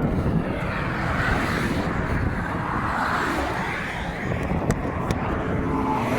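Interstate traffic passing close by: a steady road roar with a heavy low rumble, swelling as vehicles go past about a second in and again about three seconds in.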